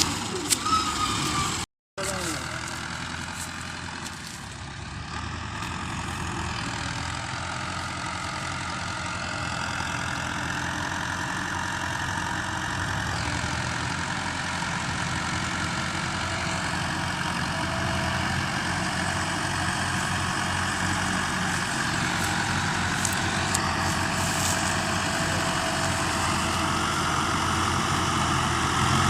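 Tractor diesel engine running steadily, growing gradually louder. The sound cuts out briefly about two seconds in.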